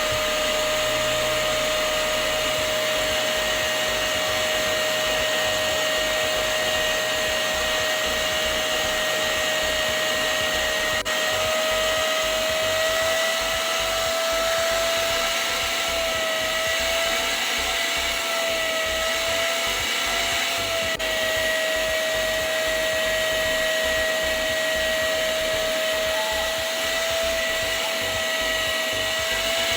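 Hoover upholstery vacuum cleaner running steadily on a fabric chair, with a high, even motor whine that wavers slightly in pitch partway through.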